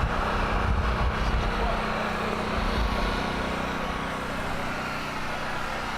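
A vehicle engine running steadily, a constant hum over general outdoor background noise, with a heavier low rumble in the first second or so.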